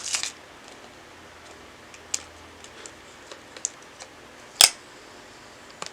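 Handling of a trading card and its pack: scattered soft clicks and taps, with one sharper click about four and a half seconds in.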